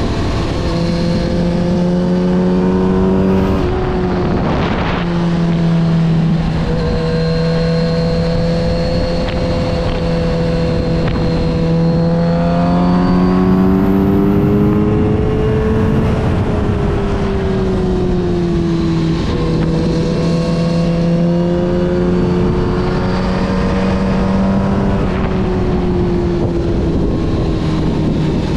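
Kawasaki Z900RS inline-four engine running through a full Yoshimura exhaust while the bike is ridden, with wind noise over it. The engine holds a steady note for stretches, and its pitch climbs and falls back twice as the throttle is opened and eased. A brief rush of noise comes about five seconds in.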